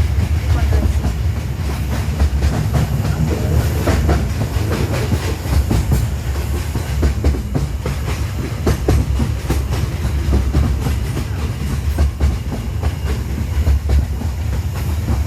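Small tourist mini train running along its track: a steady low rumble with frequent irregular clicks and rattles from the wheels and cars.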